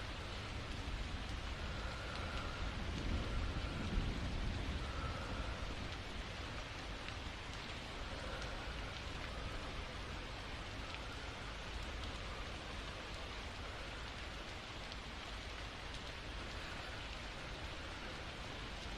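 Steady rain falling, an even continuous patter, with a low rumble swelling about three to five seconds in.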